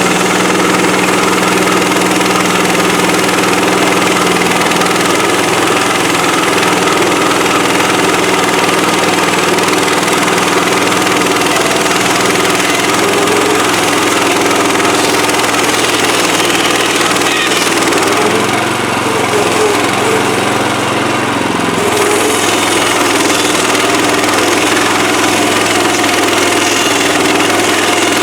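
Engine of a Woodland Mills HM130MAX portable band sawmill running steadily, with a brief change in its pitch and a small dip in level about two-thirds of the way through.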